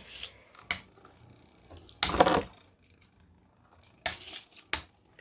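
3D-printed beyblade spinning tops clashing and scraping in a plastic stadium. There are a few sharp clicks and knocks, with faint grinding between the hits.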